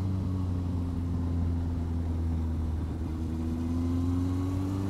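Yamaha Fazer 1000's inline-four engine running under way, its note easing down slightly, then rising steadily from about three seconds in as the bike picks up speed. Under it is a steady rush of wind noise.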